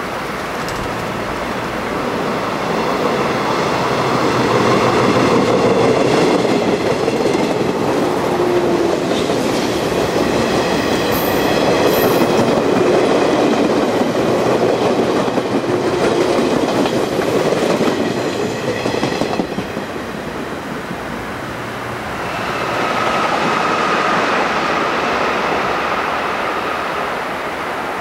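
A JNR-era limited express electric train passing close by on a curve: wheels rolling over rail joints with a rhythmic clatter, and high steady whining tones over the rumble. It fades after about 19 s, and a second train draws near from about 22 s, carrying a single steady high tone.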